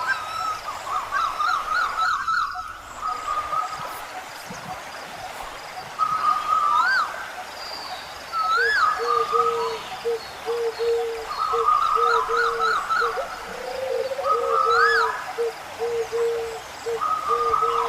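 Birds calling. Trilled phrases alternate with short whistles that swoop up and back down. From about halfway through, a low hooting note repeats about twice a second underneath.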